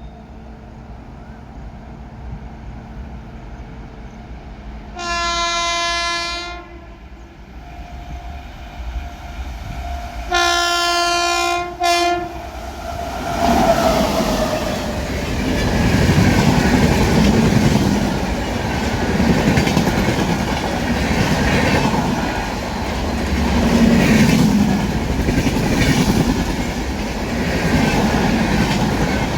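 WAP-7 electric locomotive sounding its horn twice, a blast about five seconds in and a longer one near ten seconds ending in a short toot. The express then runs past at speed, its LHB coaches' wheels clattering over the rail joints in a steady rush.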